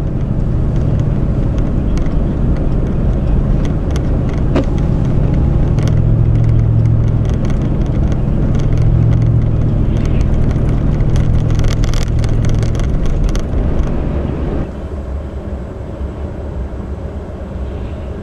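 Car driving on a snow-covered road: a steady low rumble of engine and tyres with faint scattered ticks, dropping to a quieter rumble about fifteen seconds in.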